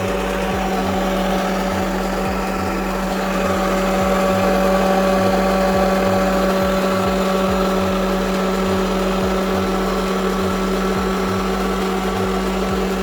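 Homemade vacuum cleaner's small 12 V DC motor running steadily with a high hum, sucking up sugar.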